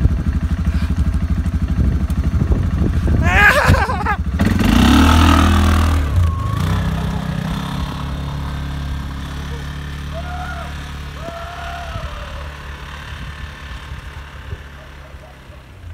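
An engine running close by with a rapid low throb. It revs briefly about three to four seconds in, then settles to a steady drone that slowly fades away.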